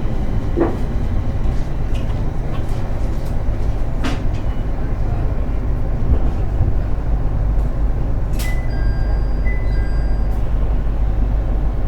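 JR 701 series electric train running, heard from inside the car: a steady low rumble of wheels on rail with occasional clicks. A few brief faint high tones sound about eight seconds in, as the train approaches a station stop.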